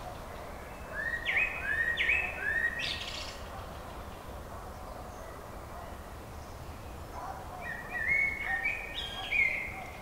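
A songbird sings two short phrases of quick, repeated sweeping whistled notes, about a second in and again near the end, over a steady faint background hiss.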